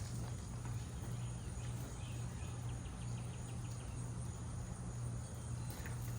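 Steady low motor hum with a slight slow pulse, and a faint quick run of high chirps about two seconds in.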